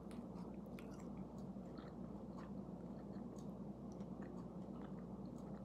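A person faintly chewing a forkful of plant-based burger patty, with small wet mouth clicks scattered through, over a low steady hum.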